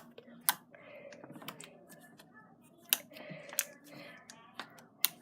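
Lotion-mixed slime being squished and worked by hand, making several sharp clicking pops over a softer crackly squish.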